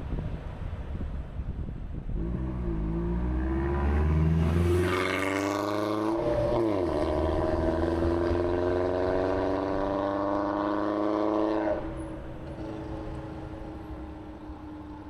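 Vehicle engine speeding up with rising pitch, a brief dip and recovery like a gear change, then holding a steady pitch before dropping away suddenly near the end, over road noise.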